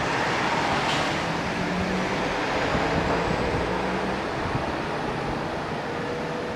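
Yellow JR electric train running on along the track at a distance, a steady rumble with a faint hum that eases off near the end.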